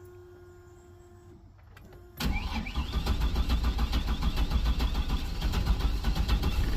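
A 2000 Chevy Astro van's 4.3-litre V6 cranks on the starter with an even, rhythmic beat but does not catch: the crank-but-no-start fault the owner blames on a burnt distributor cap and rotor. The cranking starts about two seconds in, after a faint steady hum.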